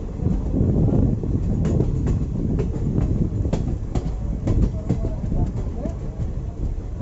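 Passenger train running along the track, heard from on board: a steady low rumble with irregular sharp clicks of the wheels over rail joints.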